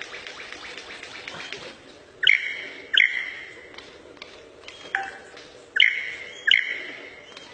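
Bird of paradise calling: a fast rattling trill for about the first two seconds, then five loud, sharp calls, each a quick upward sweep, mostly coming in pairs.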